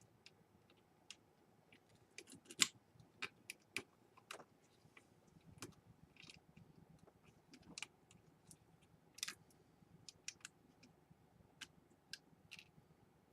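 Quiet, irregular clicks of laptop keyboard keys being pressed one at a time, the loudest about two and a half seconds in.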